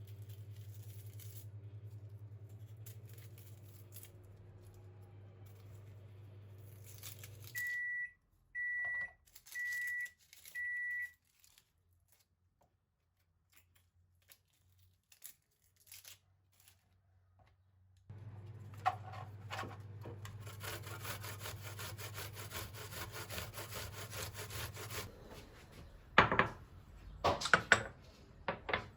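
Microwave oven running with a steady hum that stops, followed by four even beeps signalling that it has finished. Later a motor hums with a hiss for about seven seconds, then a few sharp knocks and clatter of kitchenware near the end.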